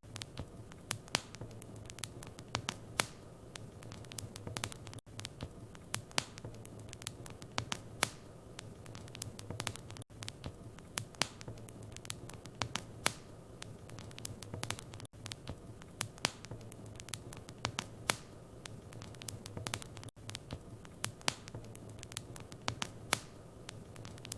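Wood fire in a fireplace crackling, with irregular sharp pops and snaps over a soft steady hiss of flames and a low hum underneath. Brief dropouts come about every five seconds.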